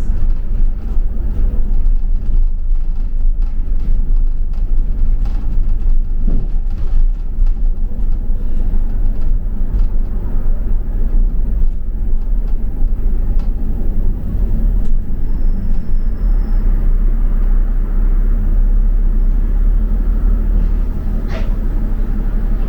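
London double-decker bus on the move, heard from on board: a steady low rumble of engine and road noise with scattered light rattles and a sharper knock near the end.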